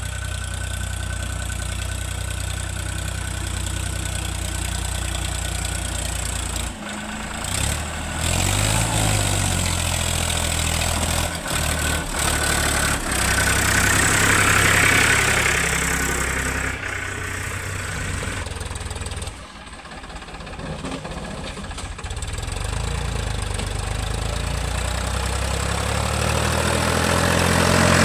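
Heavy machinery diesel engine running near idle, with a brief rise and fall in revs about eight to ten seconds in. The sound changes abruptly a couple of times.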